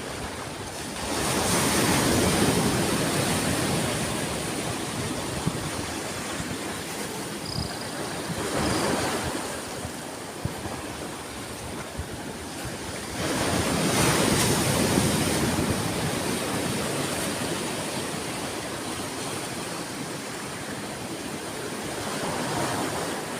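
Sea waves breaking and washing in: two large waves about twelve seconds apart, with smaller surges between.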